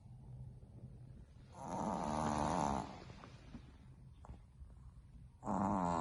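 Boston Terrier puppy snoring in her sleep: two loud snores about four seconds apart, one about a second and a half in and the next near the end, with quiet breathing between.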